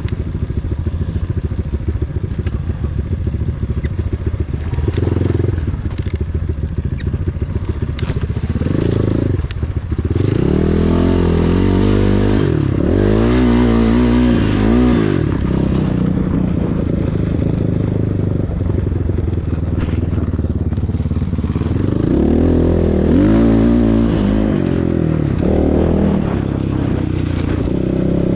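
Enduro motorcycle engine running while being ridden, revving up and down several times, with its pitch rising and falling through the middle and again near the end. Scattered clicks and scraping come in the first third.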